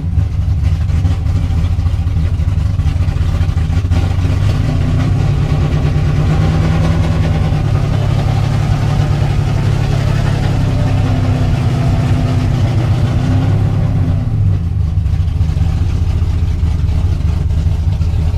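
Drift race car's engine running at low revs while being driven slowly, steady with a couple of gentle rises and a drop in pitch near the end.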